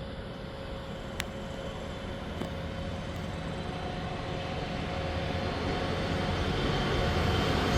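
Approaching train: a diesel locomotive's low rumble growing steadily louder, with a single faint tick about a second in.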